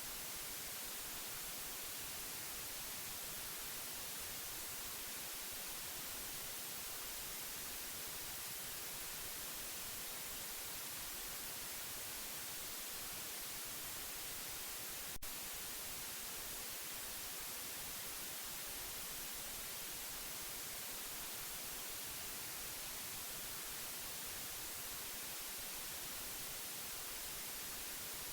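Steady white noise: an even, unbroken hiss, brightest in the high end, with one brief click about halfway through.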